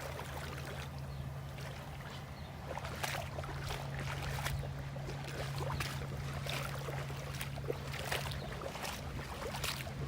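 Splashing and sloshing in shin-deep flood irrigation water, with irregular splashes about once a second, over a steady low hum.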